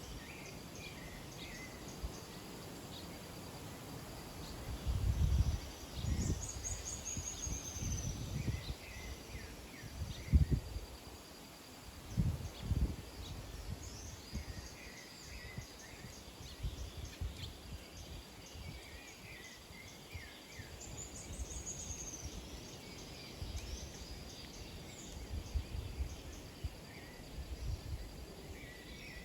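Small birds chirping and twittering in scattered bursts, with two short falling trills about a quarter of the way in and again about two-thirds of the way in, over a faint steady high insect-like buzz. Several low rumbles and thumps, the loudest sounds, come in the first half.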